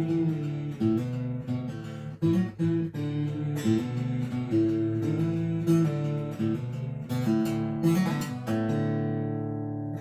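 Acoustic guitar strummed through the closing bars of a folk song, with no singing, then a final strummed chord about eight and a half seconds in that is left to ring out and fade.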